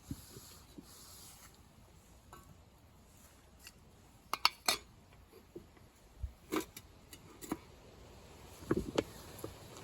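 Scattered clinks and knocks of camp cookware and utensils being handled, a few sharp strikes spread out with quiet between them.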